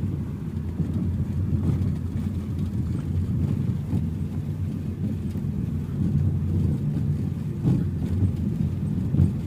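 Vehicle driving along at a steady pace: a continuous low rumble of engine and road noise.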